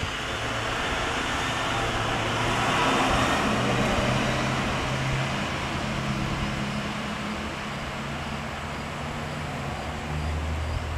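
SEPTA Silverliner IV electric commuter train pulling away and running off down the line: wheel-on-rail rumble with a low steady hum, loudest about three seconds in and then slowly fading as it recedes.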